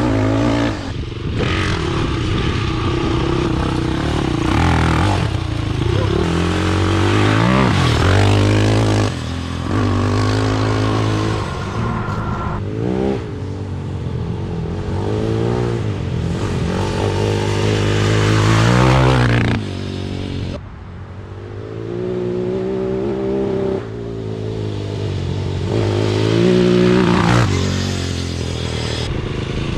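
450cc single-cylinder four-stroke off-road engine revving hard and running under load, its pitch rising and falling again and again with the throttle. It drops off briefly about twenty seconds in.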